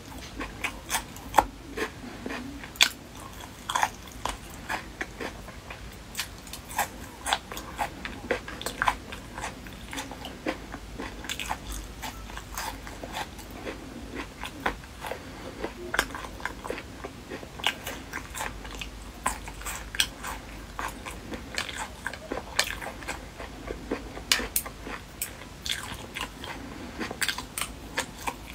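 Close-miked eating: a person chewing spicy chicken feet, with many sharp, irregular crunches as bone and cartilage are bitten, between wet chewing.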